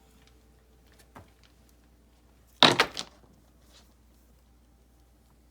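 A river rock being set into place: one short scraping knock of stone lasting about half a second, a little past halfway, after a faint click about a second in.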